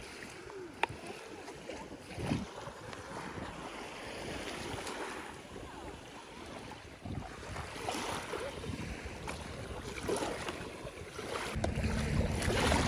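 Plastic toy packaging being handled and opened, rustling and crinkling with scattered small clicks; a low steady hum comes in near the end.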